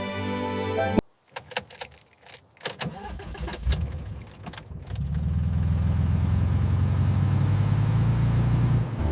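Keys jingle and click, then about five seconds in a camper van's engine starts and runs steadily.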